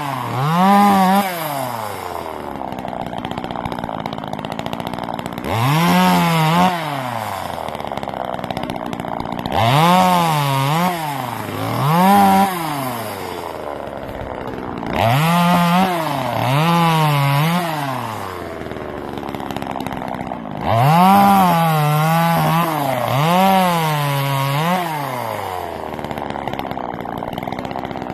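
Small two-stroke gas chainsaw revving up from idle about six times, the engine note sagging and recovering as the chain bites into the wood, then dropping back to a low idle between cuts.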